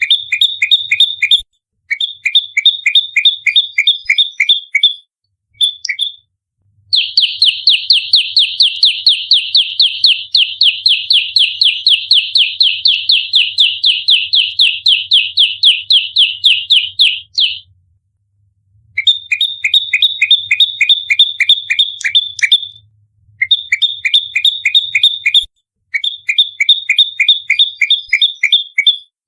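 Prenjak lumut giving its rapid-fire 'fighting' call, a fast run of sharp repeated chirps, about four a second. The calls come in short bursts of a couple of seconds with brief gaps, and one unbroken run lasts about ten seconds midway.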